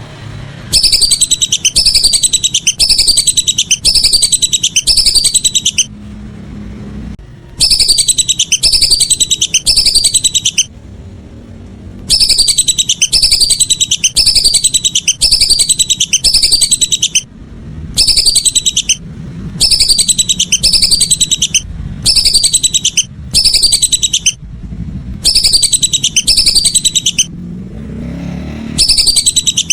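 Lesser whistling duck calls: loud runs of rapid, high, falling whistles, about two a second, repeated in groups of several seconds with short pauses between. A low rumble lies underneath.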